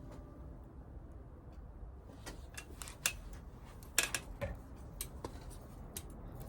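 A series of sharp, irregular clicks and light knocks from small hard objects being handled, loudest about three and four seconds in.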